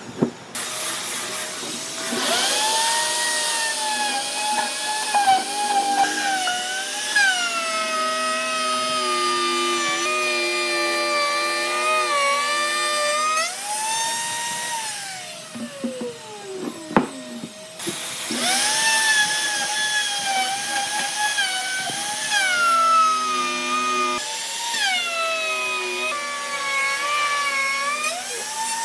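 Handheld electric power tool motor whining at high speed, its pitch dipping and recovering again and again as it is worked against the wood. About halfway through it winds down to a stop, then starts up again a couple of seconds later.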